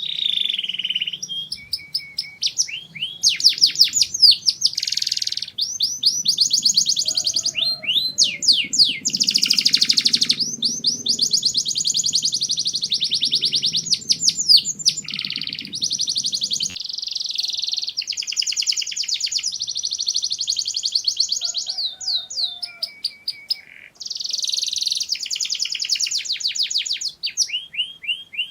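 Domestic canary singing a long song of rapid trills and rolls, each a quick run of repeated high notes, broken by short pauses.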